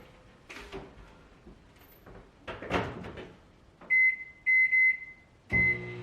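Microwave oven being set: two soft handling knocks, then a quick run of keypad beeps at one pitch and a last beep as the oven starts, its steady low running hum setting in near the end.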